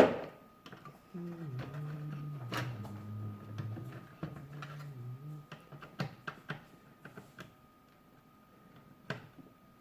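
A sharp knock at the start, then a low voice for a few seconds, then a run of small clicks and taps as a stubborn screw in the plastic toy bank is worked at with hand tools.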